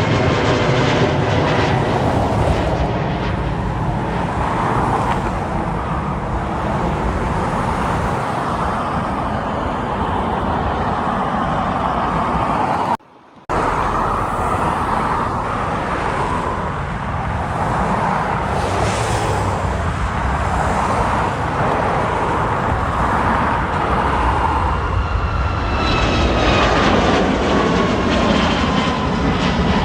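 Jet airliner engines running loud and steady, with a faint whine sliding in pitch near the start and again near the end. The sound cuts out briefly about halfway through.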